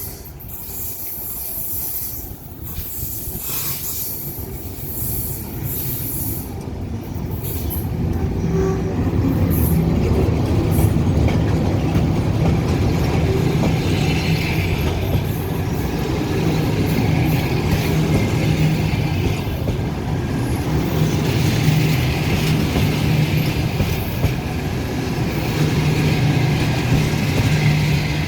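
An EP1 electric locomotive and its passenger train arriving at a station. The rolling of wheels on rails grows louder over the first ten seconds, then runs steadily with a low hum, wheel clatter and bouts of wheel squeal.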